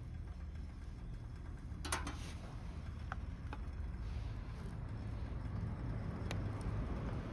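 Wood fire burning in a small fire pit: a steady low rumble with a few sharp pops, the loudest about two seconds in.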